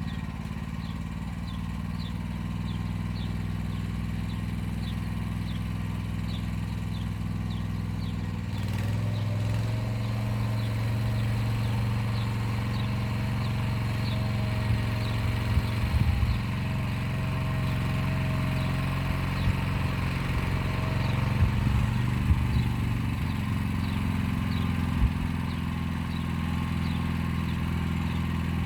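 Motor Sich walk-behind tractor engine running steadily under load while pulling an arrow-type hiller along the rows. Its note rises a little about a third of the way in, and a few light knocks come through later.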